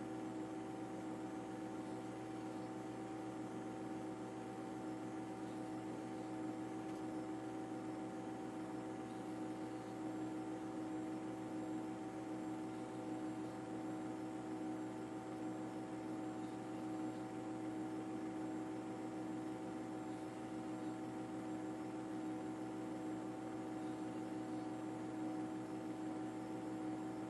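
Steady mechanical drone with several constant tones over a light hiss, unchanging throughout.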